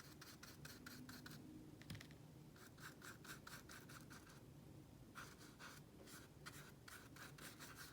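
Faint scratching of a paintbrush stroking a thin layer of acrylic paint over pieces of newspaper. The strokes are quick and repeated, several a second, and come in three runs with short pauses between them.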